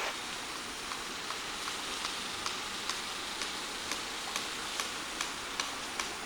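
Faint, even tapping about twice a second over a steady hiss and a thin high whine.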